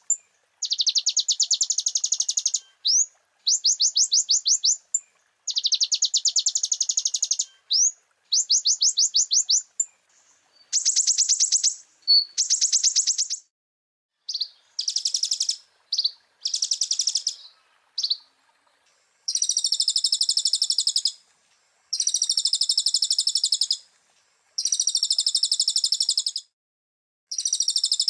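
Kolibri ninja (konin) sunbird song: a run of rapid, high trills, each burst lasting one to two seconds with short gaps between. About halfway through, the bursts turn buzzier and the phrases cut off sharply, as in a looped tutoring recording.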